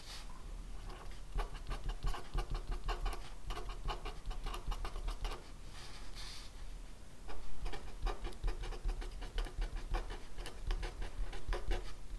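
Writing by hand on paper: quick, scratchy strokes of a pen or pencil with small ticks, coming in runs with brief pauses between them.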